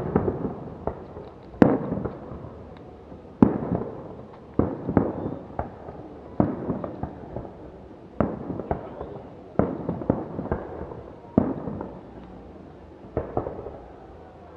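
Fireworks display: aerial shells bursting in loud bangs about every one to two seconds, each followed by a scatter of smaller pops and a fading echo.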